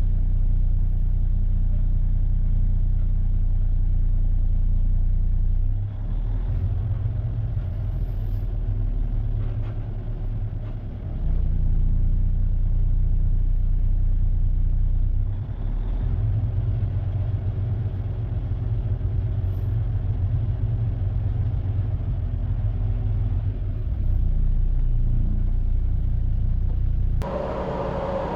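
Heavy diesel semi-tractor engine running with a steady low rumble. It steps louder and quieter several times, and near the end gives way to a higher-pitched engine sound.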